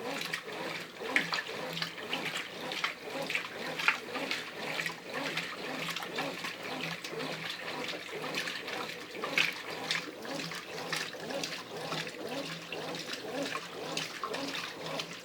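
Brastemp Ative 11 kg top-load washing machine agitating its load in the heavy cycle: water and laundry sloshing in the drum in a regular back-and-forth rhythm.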